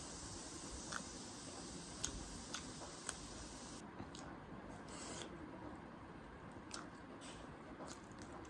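Close-up eating sounds of someone eating instant ramen noodles: wet mouth sounds and chewing, with a few sharp clicks in the first three seconds and short rustling bursts later.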